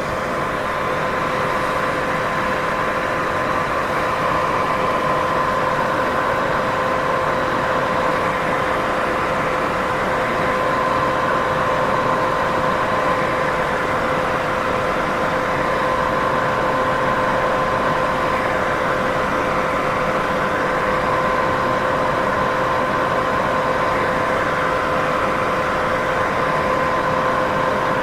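Steady white noise from a sleep-sound track: an even hiss, fullest in the middle range, with a faint steady two-note hum running under it and no change in level.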